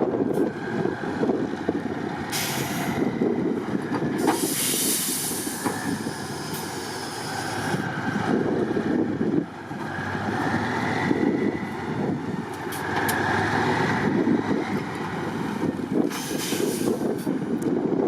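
A heavy off-road trial truck's diesel engine labouring under load, its pitch shifting as the throttle changes. Several bursts of hissing break in over it, the longest lasting about two seconds.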